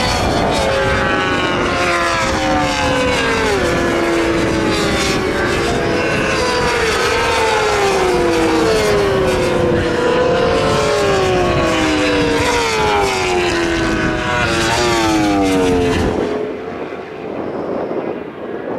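Several superbike and supersport race motorcycles passing one after another at racing speed. Their overlapping engine notes each fall in pitch as the bike goes by. About sixteen seconds in, the sound drops suddenly to a quieter, duller engine noise.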